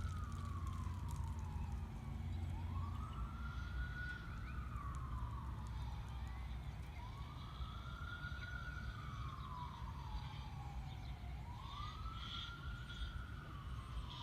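WS-1000 outdoor warning siren sounding a wail during a test, its pitch rising and falling about once every four seconds.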